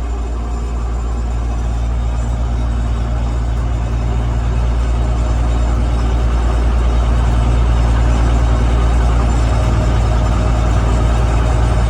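Gleaner M3 combine running. It makes a loud, steady low drone with many steady tones, growing gradually louder.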